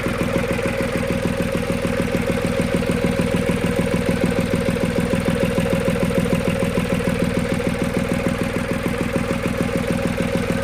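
Boat engine idling steadily with an even, rapid pulse, running smoothly on its freshly repaired water pump.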